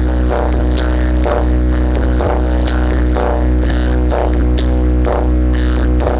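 Bass-heavy sound-check music played loud through a big rig of 24 subwoofers: a sustained deep bass drone under a steady beat of sharp hits, about two a second.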